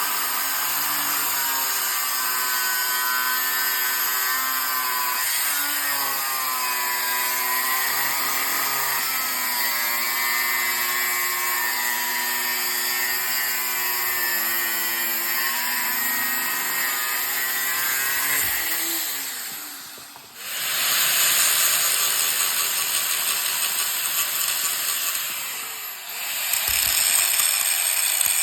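A handheld power tool runs under load for about twenty seconds, its motor whine wavering in pitch. It stops briefly, then comes back as a rougher, noisier stretch of work with a short pause near the end.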